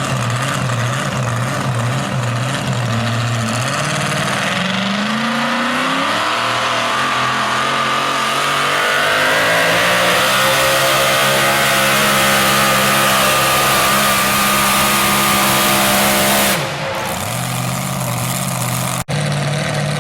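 Super modified four-wheel-drive pulling truck's engine idling, then revving up over a couple of seconds and held at high, steady revs with a high whine over it for about ten seconds, as on a pull, before dropping back suddenly near the end.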